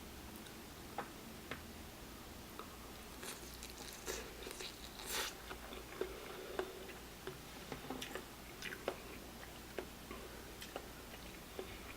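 Close-up eating sounds from a bowl of spicy noodles: wet chewing and mouth smacks, irregular short clicks with a brief cluster of noisier slurping and smacking about four to five seconds in.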